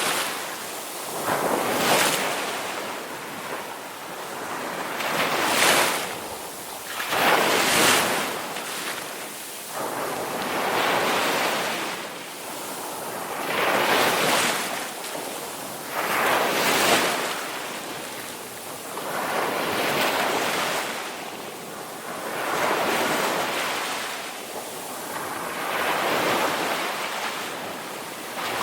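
Ocean surf: waves breaking and washing in one after another, a hissing swell rising and falling about every three seconds.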